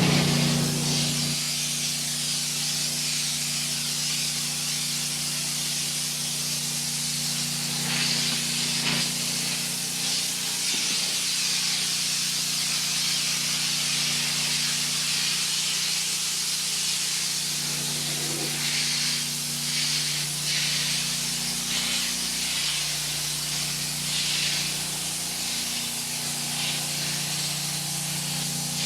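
Pressure-washer water spray hissing steadily over the even hum of the 8 gpm pressure washer's Honda engine, both louder in the first second.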